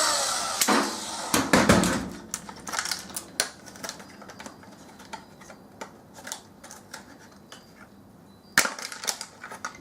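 A power tool running down at the start, then scattered sharp clicks, knocks and light clatter of small metal and plastic parts being handled as a microwave is taken apart. The heaviest knocks come in the first two seconds, and a single sharp click comes near the end.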